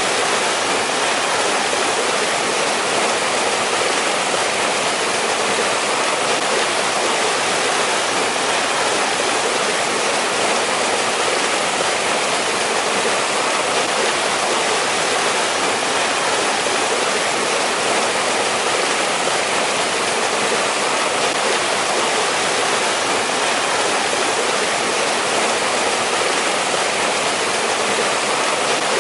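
A valley stream rushing over rocks in a steady, unbroken wash of water noise.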